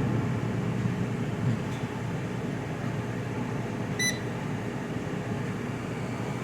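Countertop air fryer's fan running steadily with the temperature set to its lowest, so the heating elements are off and only the fan is going. One short electronic beep about four seconds in.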